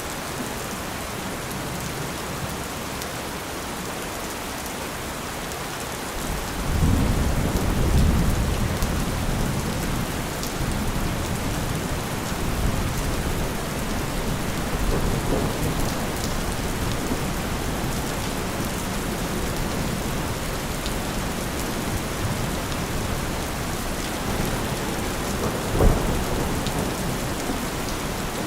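Steady heavy rain with low rolling thunder. A rumble of thunder swells about six and a half seconds in and fades slowly, and a short low crack comes near the end.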